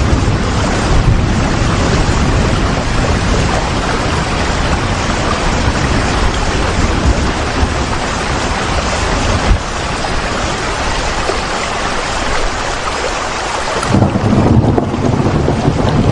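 Steady heavy rain, a dense even hiss, with a deep low rumble swelling up near the end.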